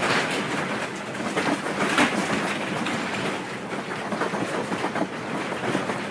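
Continuous rattling and clattering of things shaken by an earthquake, with a low rumble underneath and many quick, irregular knocks.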